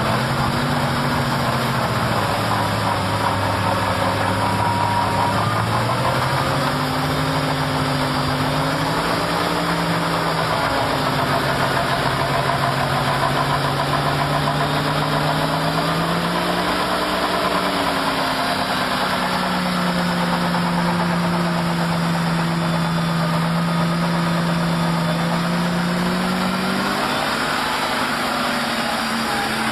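A vehicle engine running, its revs rising and falling slowly several times, held higher for several seconds in the second half and then dropping near the end.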